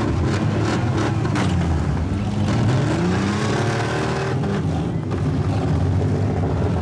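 Demolition derby cars' engines running and revving, their pitch rising and falling, with a few sharp knocks in the first second and a half.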